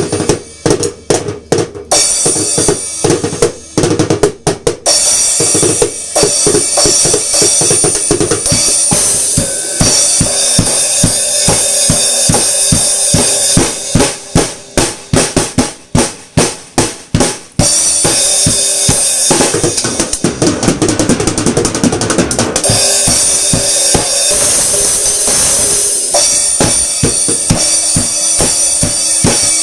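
Drum kit played in rock beats: kick drum, snare and toms with Remo Pinstripe heads, under near-constant cymbal wash, with a couple of sparser, punchier passages of spaced hits.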